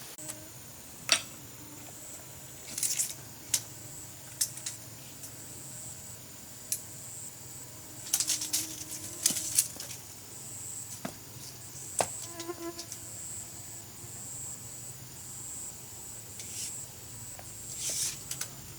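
A steady high-pitched insect drone, with scattered sharp clicks and light knocks, including a quick run of them about eight to nine seconds in.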